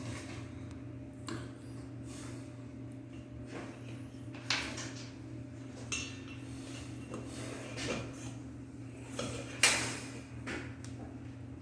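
Scattered metallic clinks and knocks of small fixture parts being handled and fitted while a ceiling fan is assembled, the loudest knock near the end, over a steady low hum.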